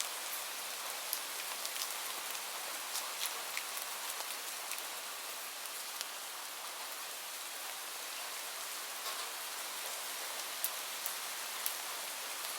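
Rain falling steadily: a constant hiss with scattered sharp ticks of individual drops hitting a surface.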